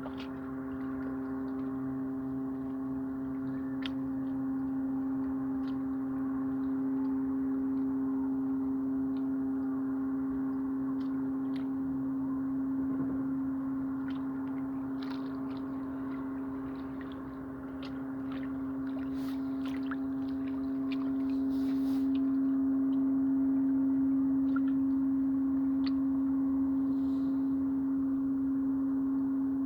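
Steady low humming drone with a stack of overtones, swelling louder in the second half, with faint scattered clicks above it.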